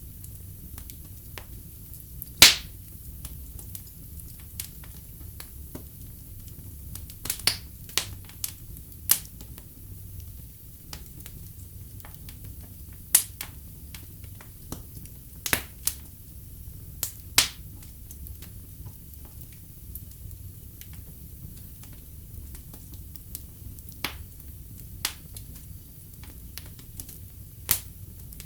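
Wood fire in a fireplace crackling, with irregular sharp pops and snaps over a low steady rumble. The loudest pop comes about two and a half seconds in.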